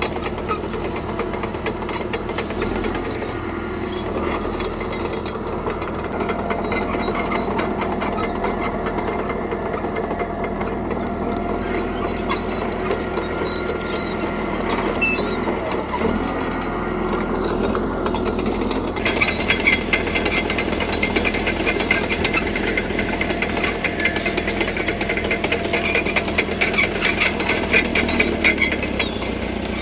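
CAT D3K crawler bulldozer working: its diesel engine runs steadily under a dense, rapid clatter and squeak of the steel tracks. About two-thirds of the way in, a higher rattle grows louder.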